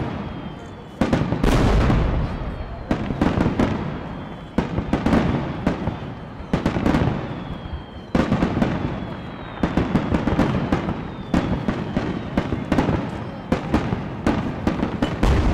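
Aerial firework shells launching and bursting in quick succession: repeated sharp booms, about one every second or two, each trailing off in echo and crackle.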